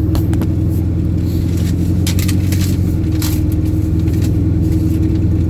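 Steady low hum of an idling vehicle engine, with scattered short crackles and rustles of a paper receipt being handled.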